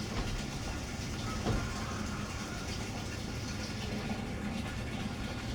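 Steady rush of running water, with one short knock about a second and a half in.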